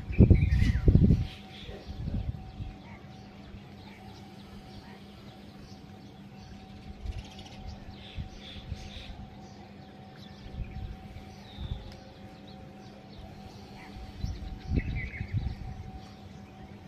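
Birds chirping now and then over a faint steady hum. A low rumble of wind on the microphone is loudest in the first second and comes back briefly a few times later.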